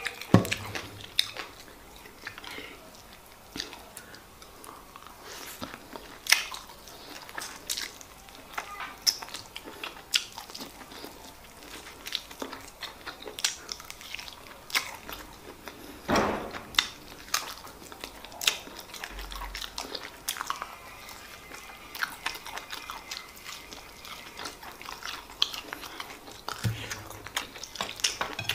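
Close-miked mouth sounds of someone chewing and biting big handfuls of white rice and stewed chicken eaten by hand: irregular sharp clicks throughout, with one louder bite about halfway through.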